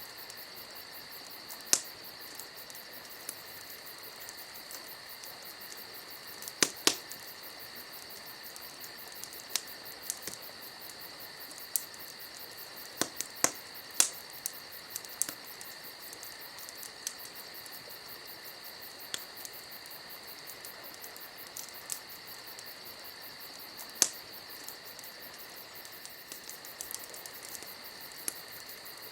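Crickets chirping steadily, with a campfire crackling over them in sharp, irregular pops, several of them louder than the insect chorus.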